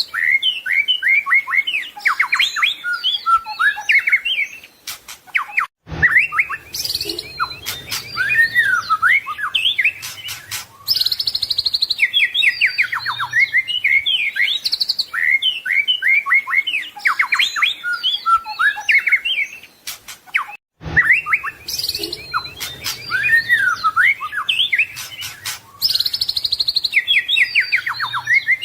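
White-rumped shama singing continuously: a rapid, ever-changing stream of whistles, trills and chattering phrases, a song full of mimicked notes. The song breaks off briefly about six seconds in and again about twenty-one seconds in, and the same passage then repeats.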